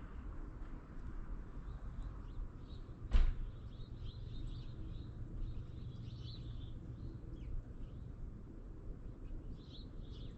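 Faint bird chirps repeating over a low steady rumble, with one sharp knock about three seconds in.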